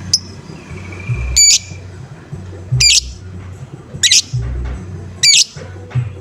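Lovebird giving short, harsh 'ngoek-ngoek' calls, about five of them, roughly one every 1.2 seconds. This is the call type that keepers play as a lure to set other lovebirds calling. Background music with a low thumping beat runs underneath.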